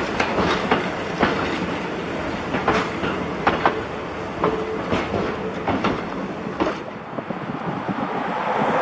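Broad-gauge train of passenger cars rolling past, the wheels knocking irregularly over rail joints over a steady rumble of running gear. A rush of wind noise rises near the end.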